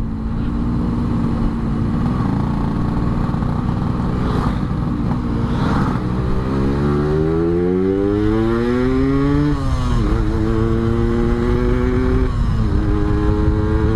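Yamaha RX-King's two-stroke single-cylinder engine under way. It runs steadily at first, then revs up rising in pitch and drops sharply on a gear change about halfway through, then pulls up again, with a second shift near the end.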